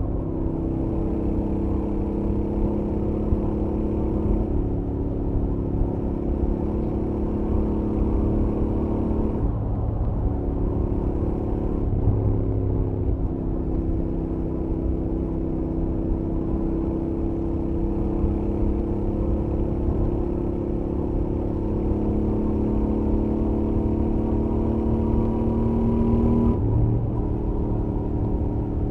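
Royal Enfield Interceptor 650's parallel-twin engine, on its stock exhaust, pulling steadily at highway speed. The engine note drifts slowly, and its pitch steps abruptly a few times: about a third of the way in, near the halfway mark and near the end.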